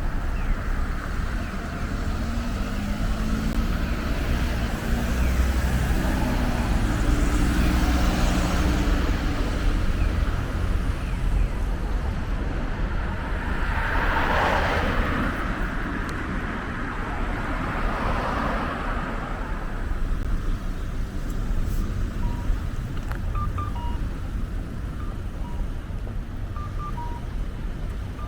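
Street traffic: a steady low rumble with an engine running at the start, then two vehicles passing near the middle, each swelling and fading. Short high electronic beeps repeat near the end.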